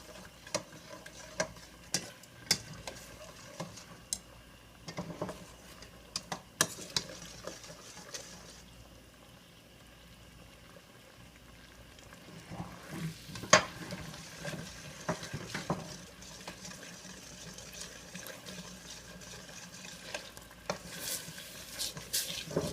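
Green curry paste and coconut milk sizzling in a frying pan while a utensil stirs and scrapes it, with irregular clinks against the pan. The scraping eases off briefly partway through, and there is a sharper knock just past the middle.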